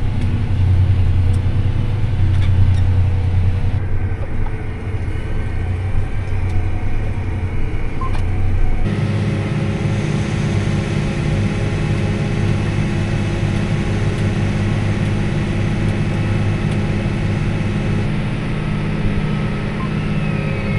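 Combine harvester running steadily while harvesting corn, a low engine drone with steady machine tones over it. The tone changes abruptly to a different, denser hum about nine seconds in.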